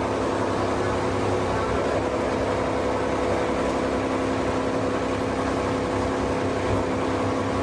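PE/PP plastic washing line machinery running steadily: a constant mechanical hum with several steady motor tones over a low rumble and a hiss.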